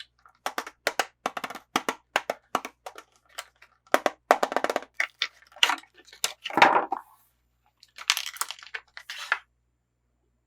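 Toy packaging being handled and opened: a run of sharp crackles and crinkles, with a louder crunch about six and a half seconds in and a denser crinkling near the end.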